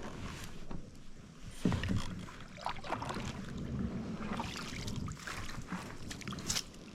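Kayak being paddled down a creek: irregular paddle strokes splashing and dipping in the water, with occasional light knocks.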